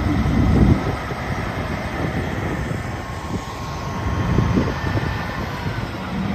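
A heavy vehicle's engine running with a low rumble, loudest in the first second, then steadier.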